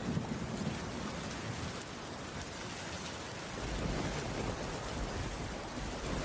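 Steady rain falling, with a low rumble of distant thunder that swells again about halfway through.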